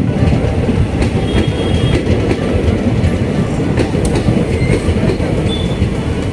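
Passenger coaches of an express train running through the station at speed without stopping: a loud, steady rumble and clatter of wheels on the rails, with a faint high squeal about a second in and again near the end.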